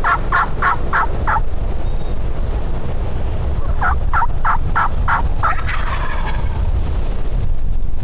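Two runs of turkey yelps, about six quick notes each, a few seconds apart, followed by a wild turkey tom's gobble. Light wind rumble underneath.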